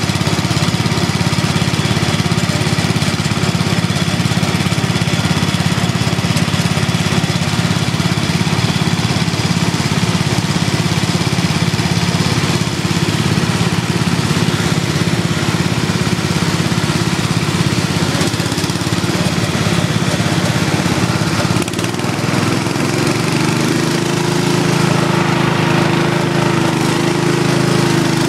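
Small lawn and garden tractor engines running steadily together, with several engine notes at once. About three quarters of the way through, the mix changes and a different engine note comes up louder.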